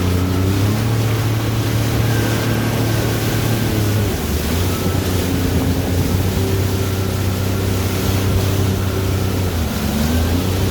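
Jet ski engine running under way, its note stepping up and down a few times, over a steady rushing noise.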